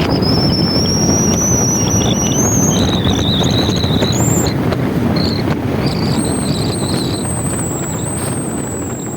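Wind buffeting the microphone of a moving motorbike, a dense rumble mixed with the bike running, with a thin high whistle drifting slowly in pitch above it.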